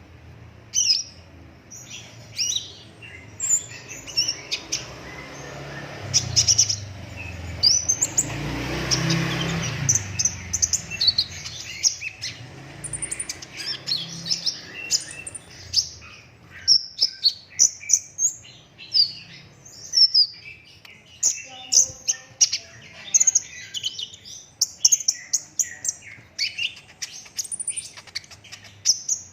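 Kolibri ninja sunbird singing: a rapid, dense run of high, sharp chirps and short trills in quick bursts. A low rushing noise swells and fades between about six and ten seconds in.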